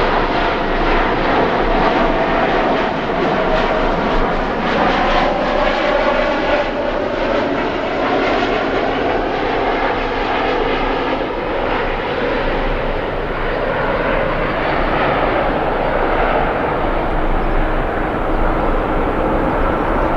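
Jet airliner passing close by, its engines a loud, steady rush with tones that slowly fall in pitch as the aircraft moves past and away.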